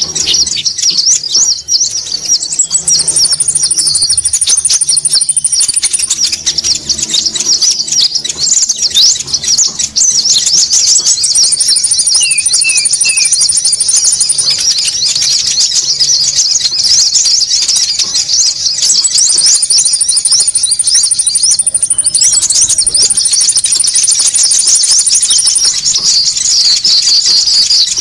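Bird-lure recording of konin birds calling: dense, fast, high-pitched chattering throughout, with a thin, higher steady trill laid over it four times, the last two close together.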